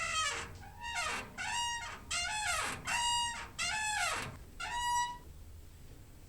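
Door hinge squeaking: a quick series of creaky squeals, each bending in pitch, about two a second, stopping about five seconds in.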